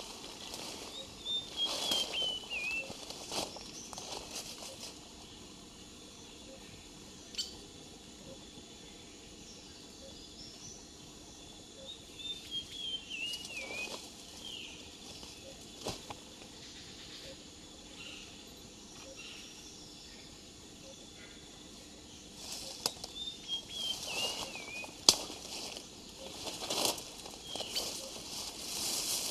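A bird sings a short phrase of falling whistled notes three times, about eleven seconds apart, in rainforest ambience. Brief rustling noises come and go between the phrases.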